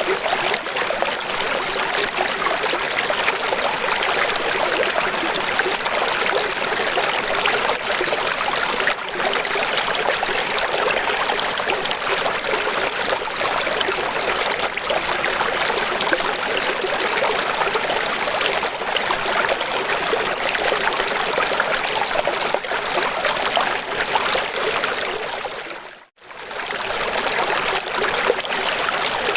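Steady rush of flowing water, a stream or waterfall ambience. Near the end it dips briefly to silence and fades back in.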